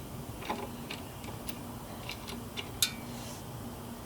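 Light, irregular metallic clicks of a mini bike's drive chain being handled, roughly every half second with one sharper click near the end, over a faint steady hum. The chain is loose, thought to be stretched.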